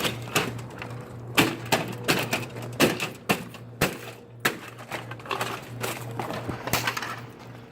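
Irregular series of sharp knocks and bangs as a discarded 5000 BTU LG window air conditioner is kicked and struck, its metal and plastic housing taking about a dozen blows.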